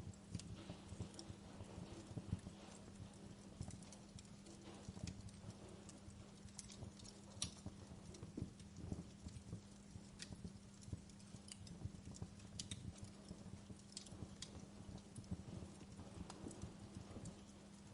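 Wood fire crackling in a fireplace: irregular small pops and snaps over a low steady rumble, with a faint steady hum underneath.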